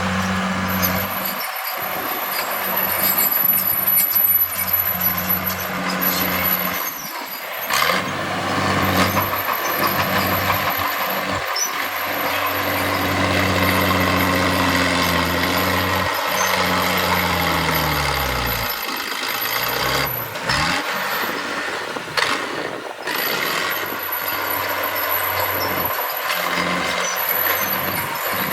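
Heavy earthmoving machinery at work: a large diesel engine running steadily under a dense noisy clatter, its pitch sinking about two thirds of the way through as the engine slows.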